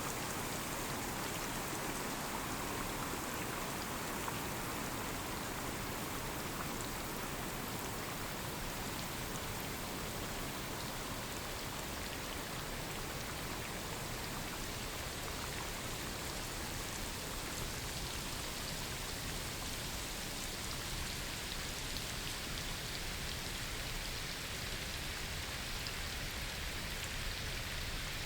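Steady rain falling on forest foliage, with fine drop patter.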